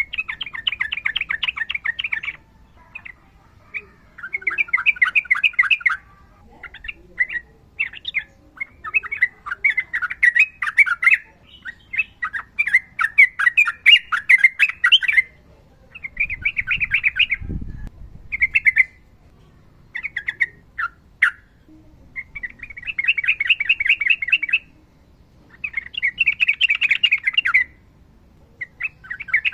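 Sooty-headed bulbul (trucukan) singing long, fast trills: phrases of rapidly repeated notes, each one to two seconds long, separated by short pauses.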